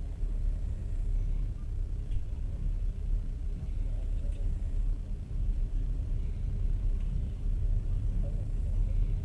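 A passenger train in motion, heard from inside the carriage: a steady low rumble with a few faint ticks.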